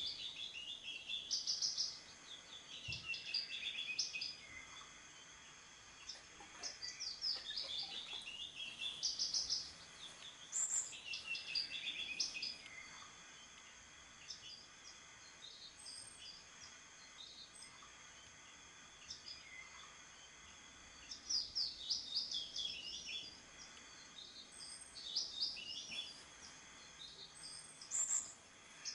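A songbird singing repeated short phrases of quick notes that fall in pitch, a phrase every few seconds, with a sparser stretch in the middle and a faint steady hiss underneath.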